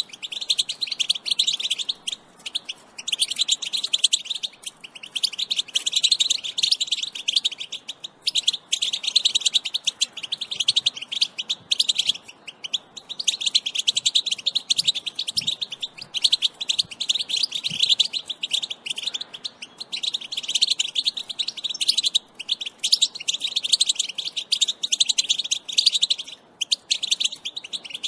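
European goldfinch twittering, a fast continuous chatter of high chirping notes broken by short pauses every few seconds. This excited chatter is the kind of call used to get male goldfinches singing.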